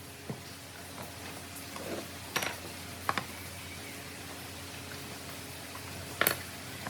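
A few separate sharp knocks and clicks, the loudest near the end, over a low steady hum: tools or pieces of wood being handled and set down at a workbench.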